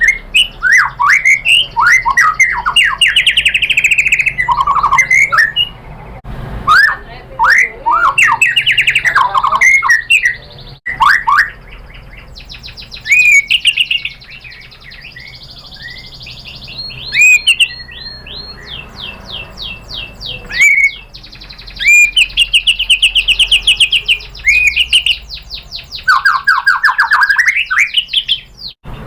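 White-rumped shama (murai batu) singing a varied, fast song of slurred whistles and rapid trills, in loud bursts with short pauses, including mimicked 'isian' phrases of other birds. Near the end it runs into fast stuttering note series.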